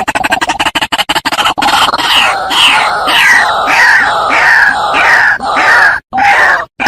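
White-breasted waterhen (ruak-ruak) calling: a fast stutter of short notes, then a series of loud repeated calls at about two a second, breaking off near the end.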